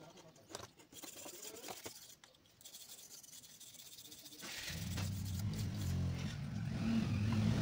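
Faint clicks and scraping of small parts being handled. About four and a half seconds in, a loud low electric buzz starts and grows louder.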